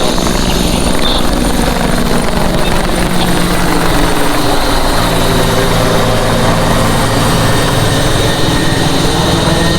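A firefighting helicopter flying, its rotor and engine noise loud and steady, with a steady high whine above the low rotor sound.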